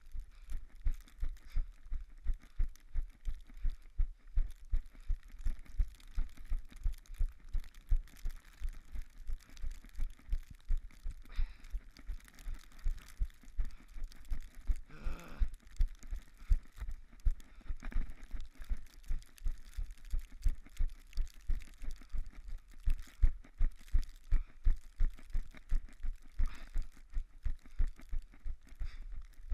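Running footsteps crunching through snow in a steady stride of about three steps a second, each footfall a dull thud with a crunch on top.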